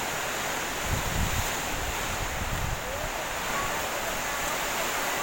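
Storm wind and heavy rain: a steady rushing hiss, with gusts buffeting the microphone about a second in and again around two and a half seconds in.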